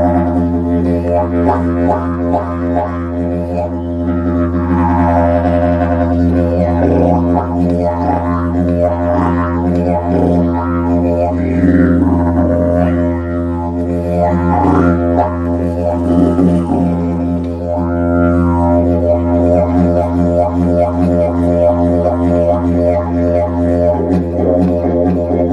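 Didgeridoo playing one continuous low drone, its tone swept up and down in wah-like arcs every second or two.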